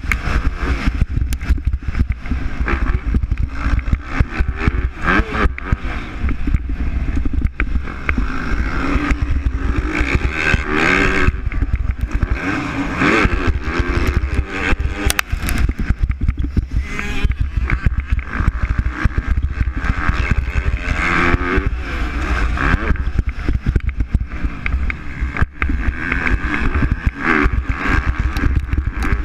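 Motocross bikes of the MX2 class racing, their engines revving up and falling back again and again as they accelerate and shift.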